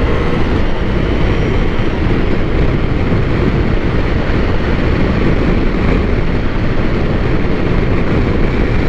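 Steady wind rush and engine and road noise of a motorcycle riding along at speed, heard from the rider's position.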